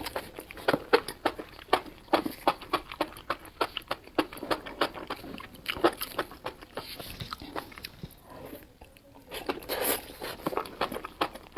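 A person eating close to the microphone: rapid, irregular chewing and crunching with mouth clicks, pausing briefly about eight seconds in.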